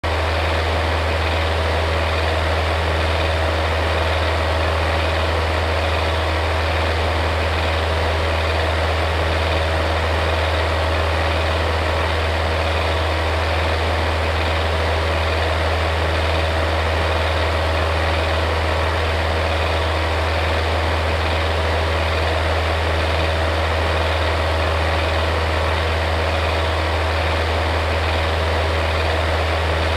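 Electric fan running steadily: an unchanging whir with a strong low motor hum and a steady mid-pitched tone.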